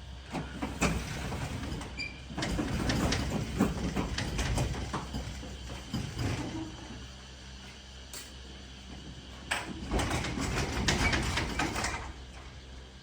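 Irregular clattering and knocking, in two busier stretches: one a couple of seconds in and another near the end.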